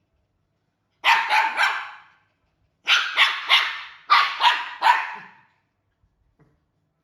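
A dog barking in three quick runs of three or four sharp barks each.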